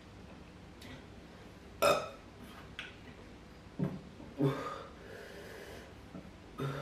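A man burping several times in short, sharp bursts, the loudest about two seconds in, his stomach upset by the heat of a fresh bird's eye chilli to the point of feeling sick.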